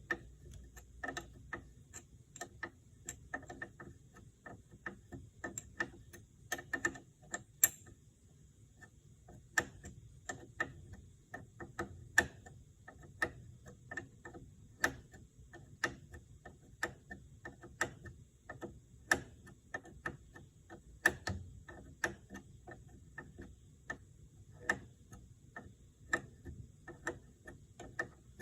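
Hand wrench clicking against the 7/16 fittings of power steering hydraulic lines as they are unscrewed. Sharp metallic ticks come at an uneven pace of about one or two a second as the wrench is reset on the nut for each short turn.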